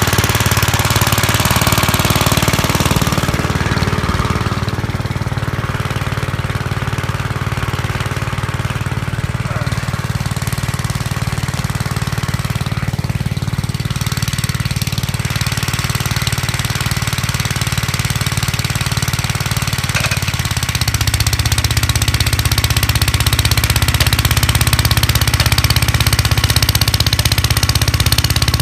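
Single-cylinder engine of a 1959 Gravely Model L tractor running steadily with a rapid, even knocking beat while powering the snow blower. Its note shifts about three-quarters of the way through.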